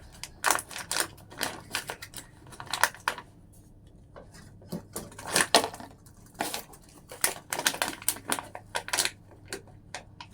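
Plastic cup fitted to a bicycle as a mock exhaust, clicking and clattering in irregular bursts.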